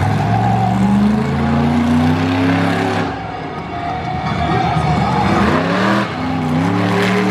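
Monster truck engine revving hard, climbing in pitch for about three seconds, easing off, then climbing again in two more pulls near the end.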